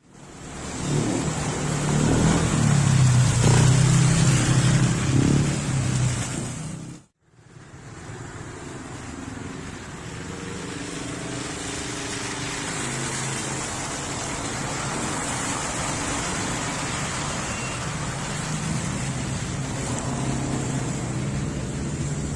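Heavy rain falling steadily, with a motor vehicle's engine running through it, louder and changing in pitch over the first seven seconds. The sound cuts out abruptly about seven seconds in, then the rain resumes with a steadier, quieter engine hum underneath.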